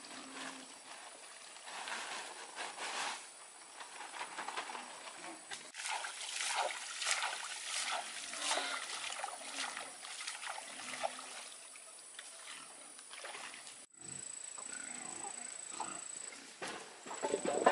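Pigs feeding: a few short low grunts among a busy run of short eating noises.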